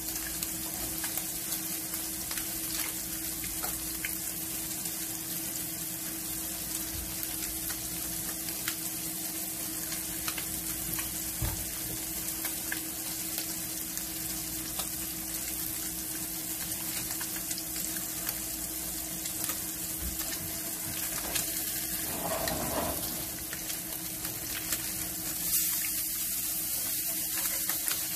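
Salmon fillets sizzling steadily in hot oil in a cast-iron skillet, over a low steady hum. Near the end a spatula scrapes under a fillet to turn it.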